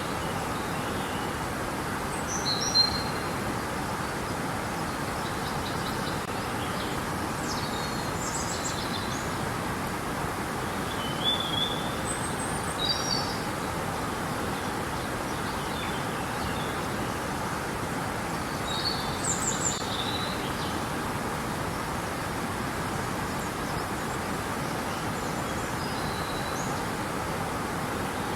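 Steady rushing of river water, with short high bird chirps and calls every few seconds above it.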